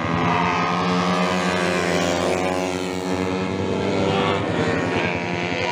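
Racing motorcycle engines running at high revs, a steady drone whose pitch wavers slightly as the bikes go round.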